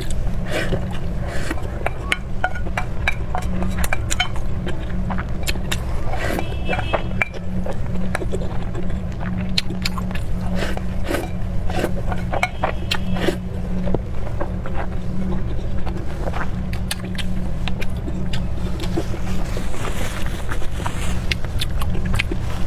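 Eating sounds: frequent small clicks and chewing noises, as of chopsticks and tableware, over a steady low rumble.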